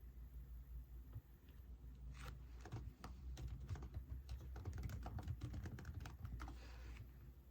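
Typing on a computer keyboard: a quick run of key clicks starting about two seconds in and stopping near the end.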